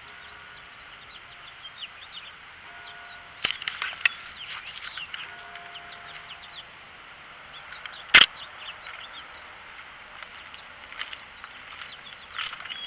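Wild birds chirping in many short calls, with a single loud sharp knock about eight seconds in and a smaller click a few seconds earlier.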